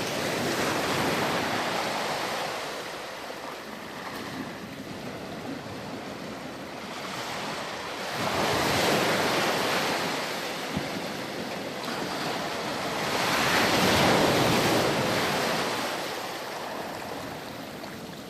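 Ocean surf: waves breaking and washing back, a steady rush that swells and fades three times, the last surge the loudest.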